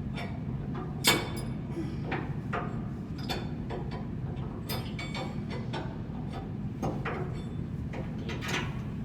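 Metal hand tools clinking and knocking on blower parts, a dozen or so separate sharp strikes, the loudest about a second in, over a steady low machinery hum.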